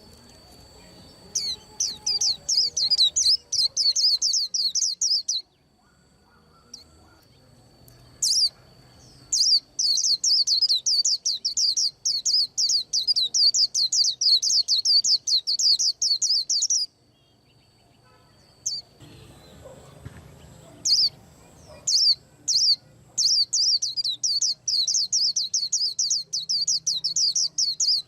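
White-eye singing three long runs of rapid, high chirps, about six notes a second, with pauses of a few seconds between runs. The uploader says the bird sings like this as it prepares to moult.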